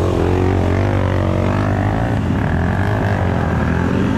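Dirt bike engine running steadily, with a pitch that wavers up and down a little.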